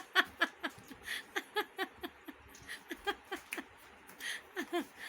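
A small animal's rapid series of short, pitched calls, two to four a second, with brief pauses between runs.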